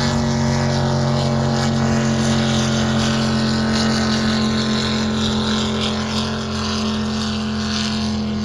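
Racing drag boat's engine running with a steady deep drone, easing off slightly in level after about six seconds.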